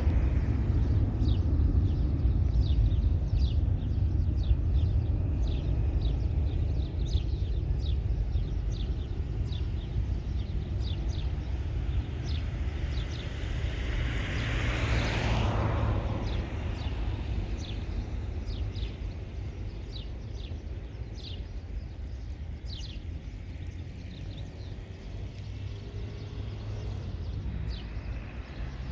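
Distant rumble of a departing Boeing 737-800's CFM56 jet engines, slowly fading as the aircraft climbs away, with a brief swell about halfway through. Many short high chirps sound over it.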